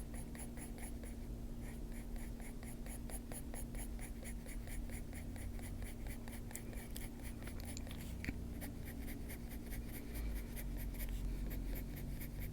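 Faber-Castell Polychromos coloured pencil shading on paper in quick, even back-and-forth strokes, about three or four a second.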